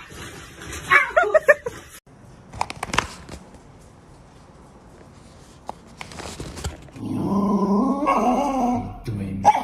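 A dog whimpering: a quick run of short high whines and yips about a second in, a few light clicks, then a longer wavering whine near the end.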